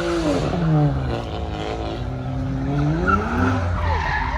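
Car engine revving hard while doing donuts, with tyres squealing on the pavement. The revs drop about half a second in, climb again, and fall near the end.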